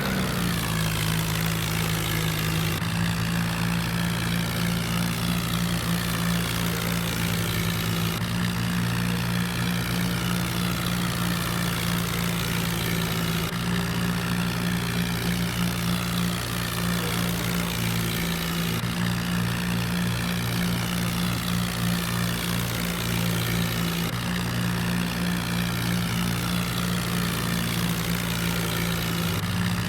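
Tractor engine running steadily at a constant pitch, a low even drone.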